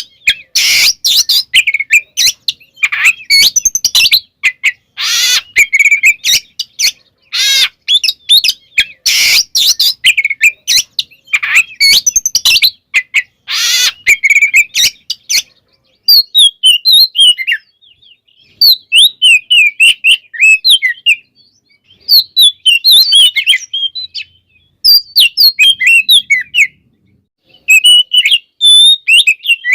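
Oriental magpie-robin singing a varied, packed song. For about the first half it gives loud, rapid, harsh and buzzy phrases, then switches to sweeping whistled notes in short runs with brief pauses.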